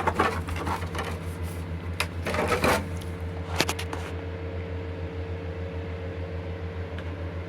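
Steady low hum with a faint higher tone, with a few sharp clicks and knocks in the first four seconds.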